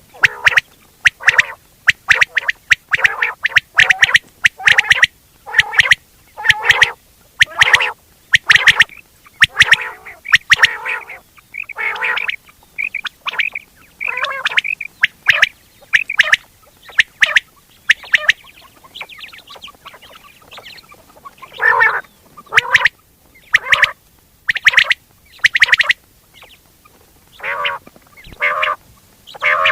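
Quail calling over and over, a recording of the kind played to lure quail when hunting. Short calls come in quick succession, one or two a second, with a quieter, sparser stretch about two-thirds of the way through.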